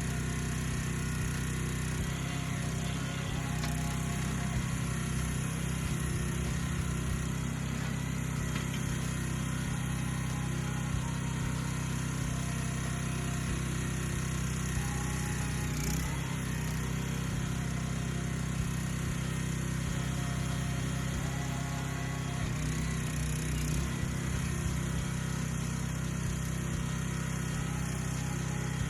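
Small gas engine of a Harbor Freight backhoe running steadily while digging, with one brief knock about halfway through.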